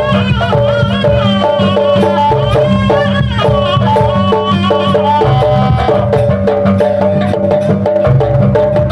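Loud jaranan music: a wavering melodic line repeating a short figure over a steady low drone and driving drums and percussion.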